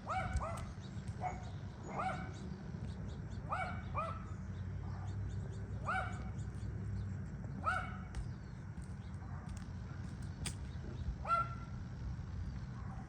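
A dog barking over and over at an even pace, a single or double bark every second and a half to two seconds, over a steady low hum.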